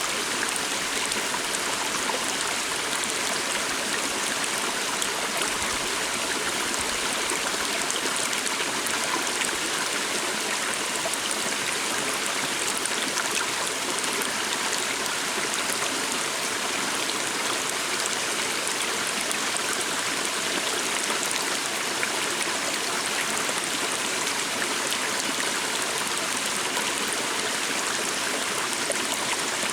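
Stream running steadily over rocks, a continuous even rush of water.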